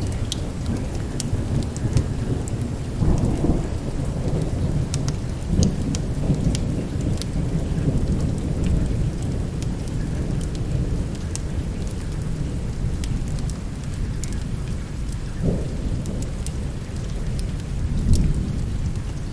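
Steady heavy rain with thunder rumbling low throughout, swelling into louder rolls several times, with scattered sharp clicks on top.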